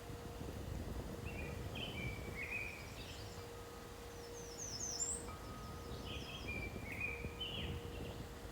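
Songbirds singing short, repeated phrases, with a quick run of falling high notes about five seconds in, over a low steady rumble and a faint steady hum.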